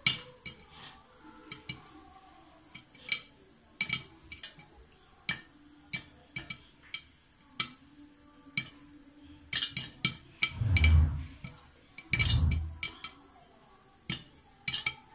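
Popcorn kernels popping in a covered kadai over a high flame: irregular sharp pops, some in quick clusters, as kernels burst and strike the pan and lid. Two longer, low rumbling knocks come about ten and twelve seconds in.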